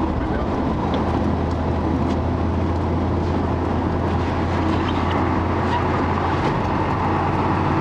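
Chevrolet 350 (5.7 L) TBI small-block V8 running steadily through a Walker SoundFit muffler: an even, low exhaust hum with no revving.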